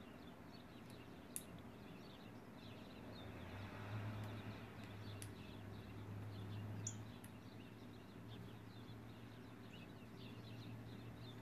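Faint outdoor ambience through an open window: scattered soft bird chirps over a steady hush, with a low hum that swells in the middle and then eases.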